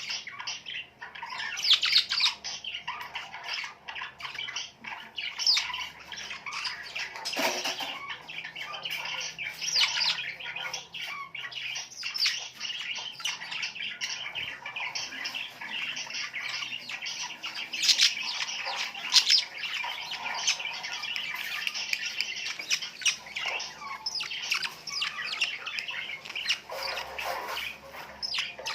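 A group of birds chattering and squawking continuously, many calls overlapping, with louder sharp calls standing out every few seconds.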